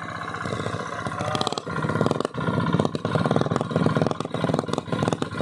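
Small engine running, growing louder and rougher from about half a second in, with a fast uneven pulsing.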